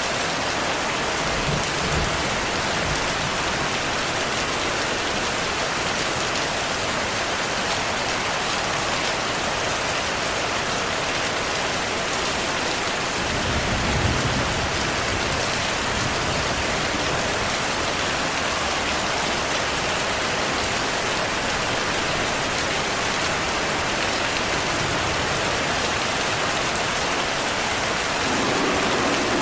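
Heavy rain falling steadily, with a low rumble of distant thunder about halfway through and a fainter one near the start.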